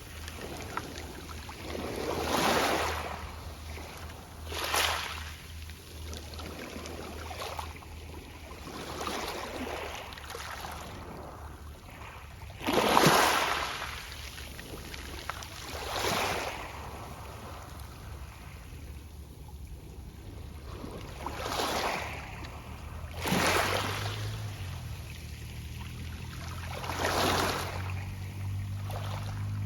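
Small waves breaking on a pebble beach, each wash rolling and rustling the pebbles, a new swell every few seconds with the loudest about thirteen seconds in. A low steady hum runs underneath and grows stronger near the end.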